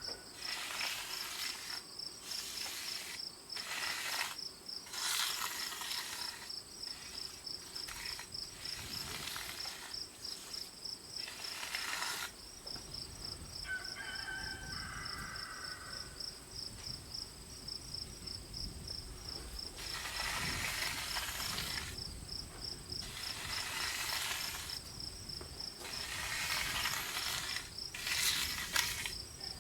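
Insects, crickets or similar, trilling steadily in a fast, high, pulsing chirr. Over it come repeated loud scraping or swishing strokes of a second or two each, with a low rumble from about halfway through.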